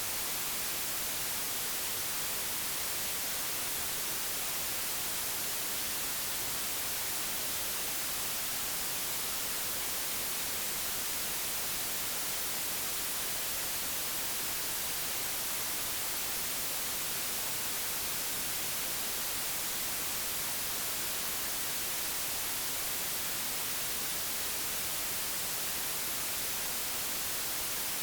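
Steady digitally generated white noise, an even hiss with no changes or events.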